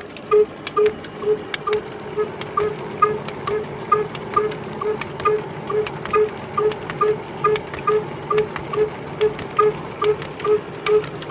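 Diesel engine running slowly and evenly, its beats about two and a half a second, each a dull thud with a click on top.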